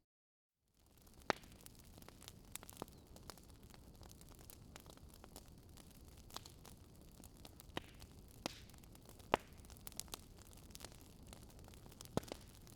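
Fireplace fire crackling: a soft steady hiss with scattered sharp pops and snaps at irregular intervals, the loudest about nine seconds in. It starts after a brief moment of dead silence.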